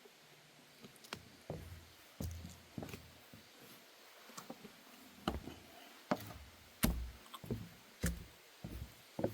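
Footsteps on a wooden deck boardwalk: a run of dull knocking thuds, about two a second and unevenly spaced, starting about a second in.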